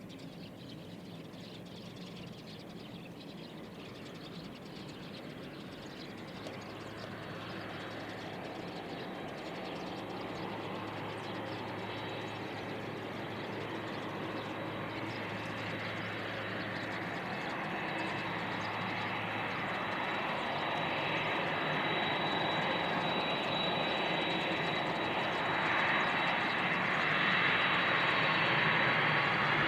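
Jet airliner's engines growing steadily louder as the aircraft approaches, a thin high whine rising out of the engine noise in the second half.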